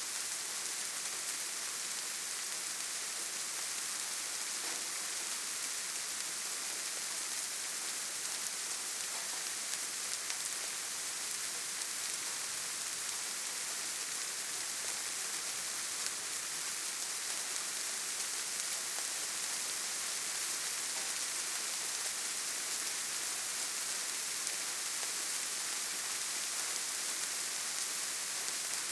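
Steady forest rainfall: an even, high hiss with a faint patter of drops, unchanging throughout.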